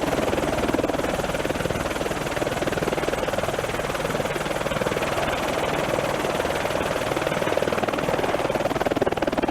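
A 2000 Eurocopter helicopter running with its rotor turning: a loud, steady, rapidly pulsing sound with no change in speed.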